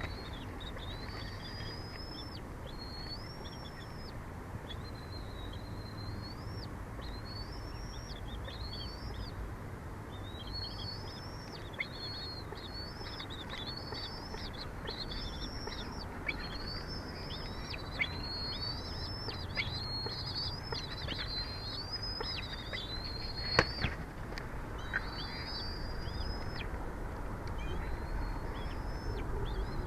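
Bird calls, a long run of short high chirps that rise and fall, over steady wind noise. There are a few sharp knocks along the way.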